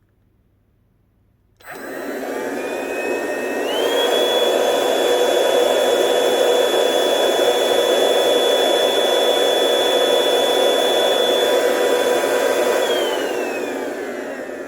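Silvercrest SHSA 20-Li A1 cordless vacuum cleaner's brushed motor switched on about two seconds in. Its whine climbs to a steady high pitch, holds, and spins down near the end. The motor is running with its turbine connected straight to a vacuum gauge, pulling almost 80 millibars.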